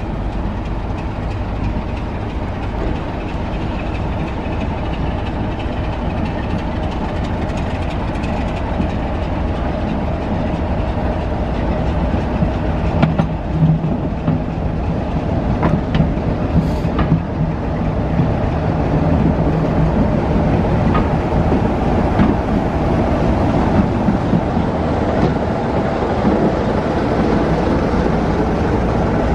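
Diesel passenger train approaching and running slowly past, with wheels clicking over the rail joints. Its steady rumble grows louder throughout as the train comes alongside, and a steady low hum joins it about halfway through as a Class 33 diesel locomotive marshalled mid-train draws near.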